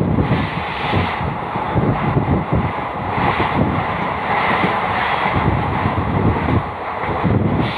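Passenger train running at speed, its wheels rumbling on the rails, with the rush of wind past the open coach door.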